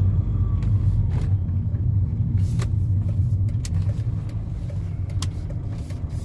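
Car driving: steady low engine and road rumble with scattered light clicks and knocks.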